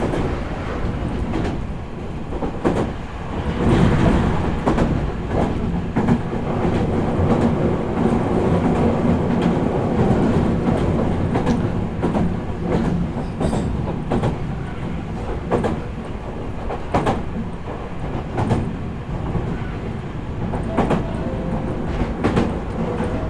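Meitetsu 4000 series electric train running between stations, heard from inside the passenger car. A steady rumble of wheels and traction gear, with repeated clicks as the wheels pass over rail joints.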